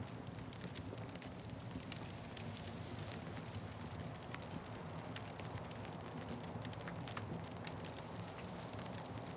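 Wood fire crackling, with many irregular sharp pops over a steady low rumble of burning.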